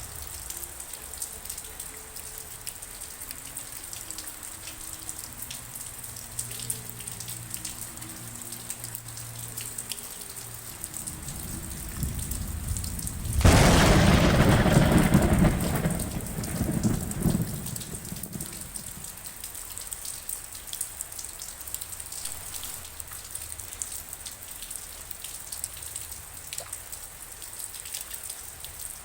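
Steady rain with raindrops pattering. About halfway through, a thunderclap breaks loud and rumbles for about five seconds before dying away.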